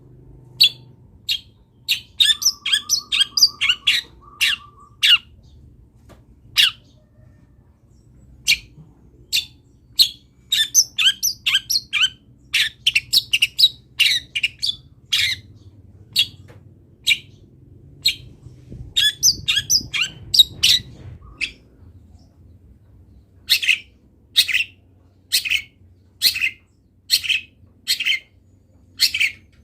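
Long-tailed shrike (cendet) calling loudly: sharp, short, high notes repeated roughly once a second, broken twice by quick bursts of rapid chattering, with an evenly paced run of calls near the end.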